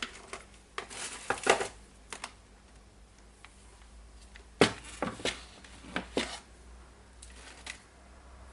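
Small screws and nuts being handled and test-fitted, giving irregular sharp clicks and clatters, the loudest about halfway through.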